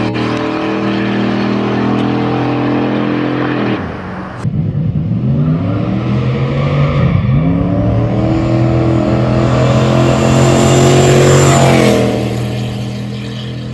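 Turbocharged 4.6-litre two-valve V8 in a Ford Thunderbird drag car held at steady revs on the line, then launched hard. Its revs climb, dip briefly about seven seconds in, and climb again with a high whine on top before falling off about twelve seconds in. The two-step launch is too aggressive and the radial tires fail to hook.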